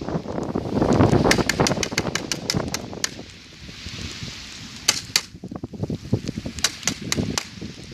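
Bonfire crackling and popping in sharp, irregular snaps several times a second. A heavy low rushing noise fills the first three seconds and then fades, leaving the pops.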